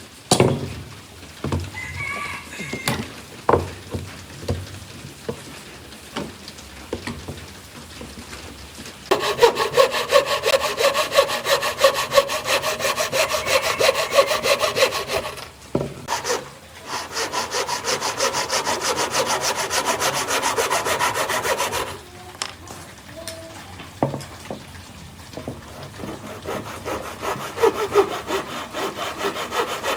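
Wood being sawn with fast, even strokes, after several scattered knocks and taps at the start. The sawing stops briefly in the middle, ends a few seconds later, and starts again more quietly near the end.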